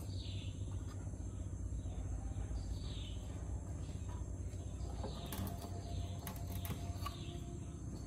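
Birds chirping in the background: short falling calls repeated about once a second, over a steady low rumble, with a few light clicks about five seconds in.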